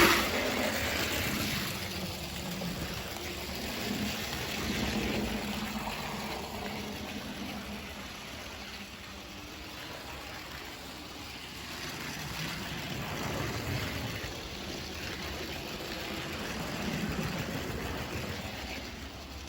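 HO-scale model locomotive running on Kato sectional track: motor hum and wheels rumbling over the rail joints, growing louder and fading again several times as it circles the loop.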